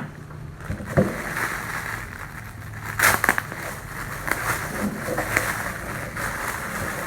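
Irregular rustling and crinkling of a jacket and its packaging being handled, with a cluster of louder crackles about three seconds in, over a faint steady low hum.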